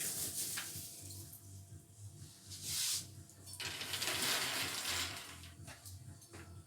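Rustling, pouring noise as nuts are added to the cake mixture, in two spells: a short one about two and a half seconds in and a longer one from about three and a half to five seconds.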